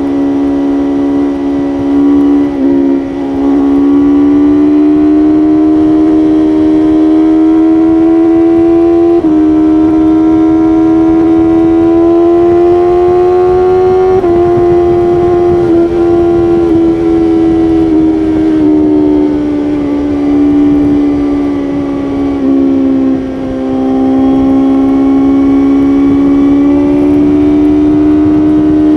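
BMW S1000RR inline-four engine running at high revs at highway speed, its pitch climbing and sagging slowly as the throttle is held and eased. The throttle is briefly rolled off about three seconds in and again near the end, with a sudden step up in pitch partway through, over a rush of wind.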